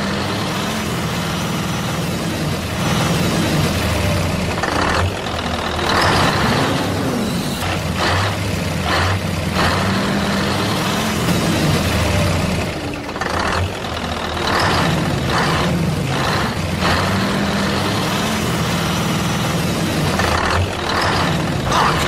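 Heavy truck engine running, its pitch rising and falling, with a string of short, sharp noises over it.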